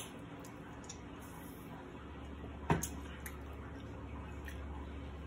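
Quiet chewing and mouth sounds: a few soft clicks and smacks, one sharper about two and a half seconds in, over a low steady hum that comes in about two seconds in.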